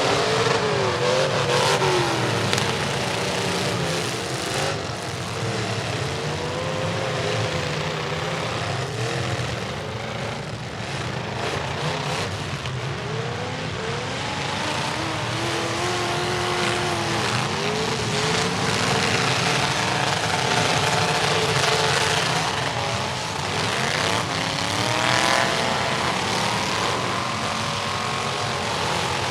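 Several demolition derby trucks' engines revving and running at once, their pitches rising and falling over each other, with occasional sharp knocks.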